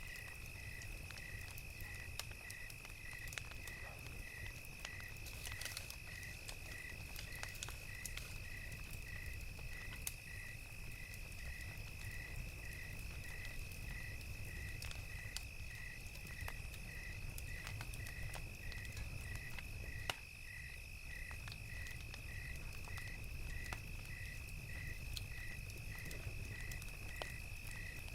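Night insects chirping, a steady high trill with a second chirp repeating evenly about one and a half times a second, over a crackling campfire with scattered small pops.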